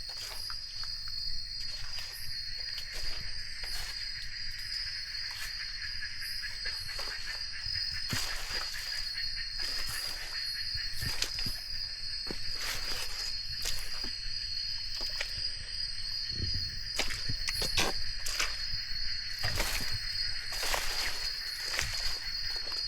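Steady, high-pitched chorus of night insects in humid jungle, with scattered rustles and footsteps through wet undergrowth that come more often from about a third of the way in.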